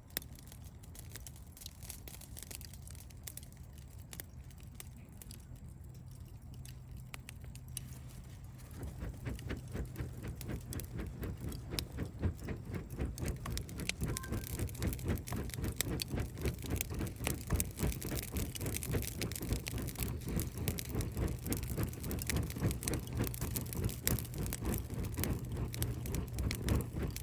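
Campfire crackling: dense, quick crackles that build up about a third of the way in, over a low steady hum.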